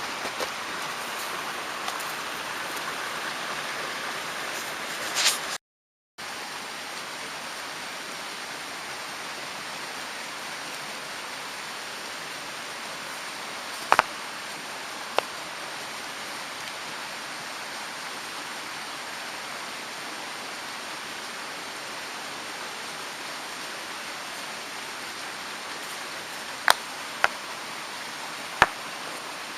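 Mountain stream rushing steadily, cutting out for a moment about six seconds in. A few sharp clicks stand out, twice near the middle and three times near the end.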